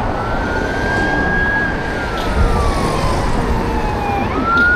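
Emergency-vehicle siren wailing in slow cycles: a rise to a held high note, a long fall, then another rise near the end, over a steady rushing noise.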